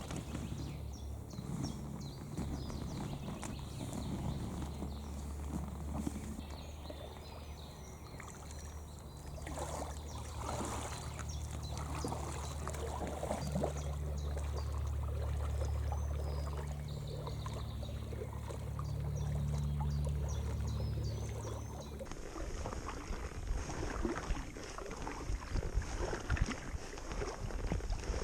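Kayak paddling on a lake: paddle splashing and water dripping over a steady low rumble. About three quarters of the way through the sound cuts to a scratchy crackling.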